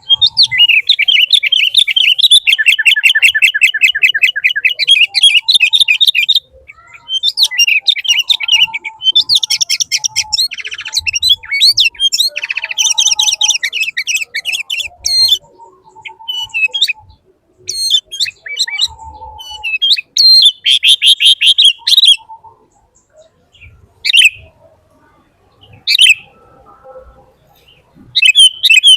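A bird chirping in rapid high-pitched trills: a long run of about six seconds, then shorter bursts with pauses, ending in a few brief single chirps.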